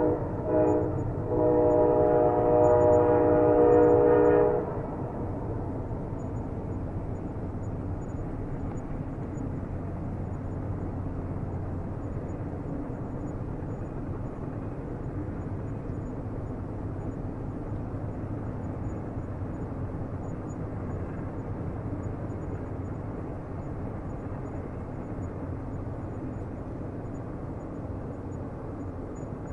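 Train horn blowing: one blast breaks off just after the start, a second long blast follows and ends about four and a half seconds in. A steady low rumble of a train goes on after it.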